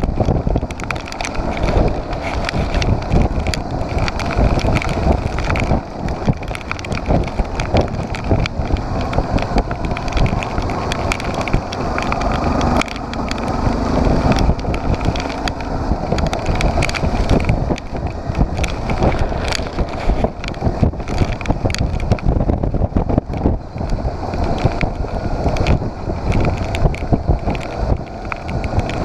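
Motorcycle engine running on the move, with heavy wind noise buffeting the microphone.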